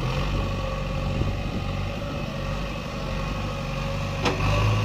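Diesel engine of heavy machinery running steadily. A short knock comes near the end, and the engine then gets louder.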